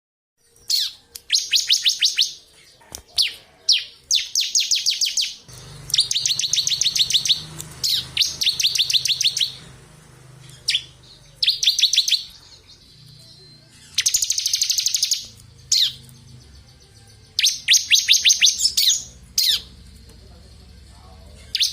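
Bar-winged prinia (ciblek kristal) singing non-stop: about nine fast, high rattling trills of a second or so each, with single sharp call notes between them.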